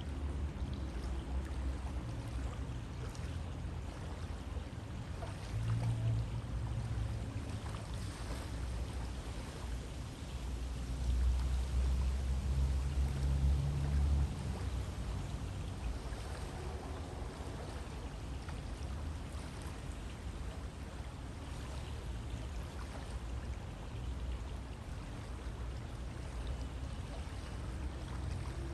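River water flowing steadily, a continuous rushing hiss, with deeper rumbling swells about six seconds in and again for a few seconds near the middle.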